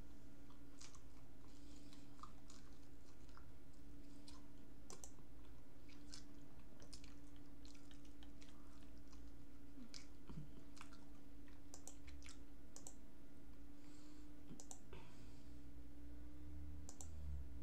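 Close-up chewing, with scattered soft mouth clicks, over a steady low hum.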